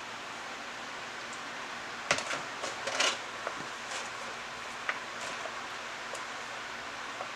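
A spoon clinking and tapping against a plastic container, with a cluster of light knocks about two to three seconds in and a few more clicks later, over a steady background hiss.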